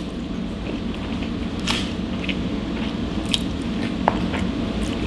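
Chewing a mouthful of spaghetti carbonara: wet squishing, with a few short sharp mouth clicks spaced a second or two apart.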